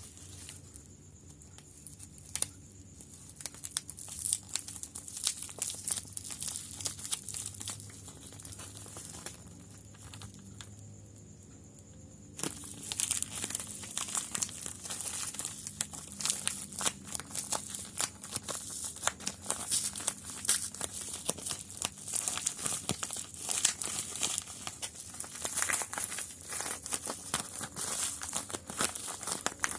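Packaging being handled and opened for unboxing, making crinkling and tearing sounds. The crackles come in scattered bursts at first, with a brief lull, then run dense and continuous from about twelve seconds in.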